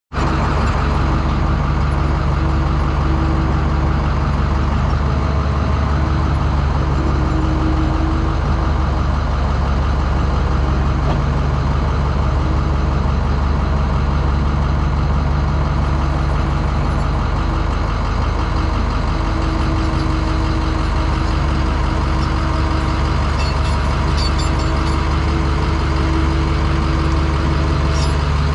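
Heavy diesel engine running steadily at one speed, with a higher hum that comes and goes.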